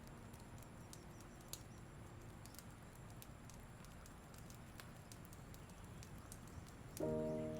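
Campfire burning faintly, with scattered small sharp pops and crackles from the wood. Near the end a sustained chord of soft background music comes in.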